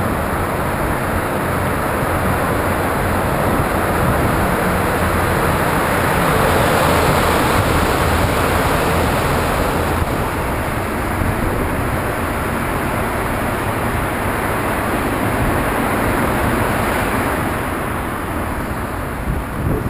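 Steady rush of wind on the microphone and highway road noise while cycling along a busy road, swelling a little about seven seconds in.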